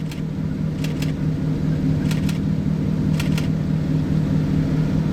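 Car driving at speed, heard from inside the cabin: a steady engine and road hum, with brief paired clicks every second or so.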